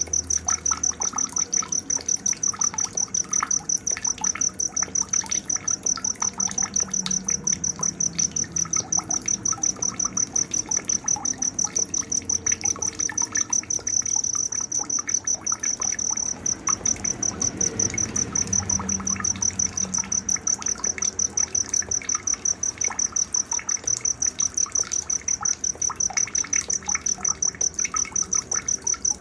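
Cricket chirping in a steady, fast, evenly pulsed high-pitched trill, with scattered small bird chirps beneath it: a night nature ambience.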